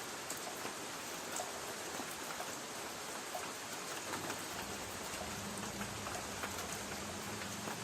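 Light rain on a tin roof: a steady patter with many separate drops ticking on the metal. About halfway through, a faint low hum joins underneath.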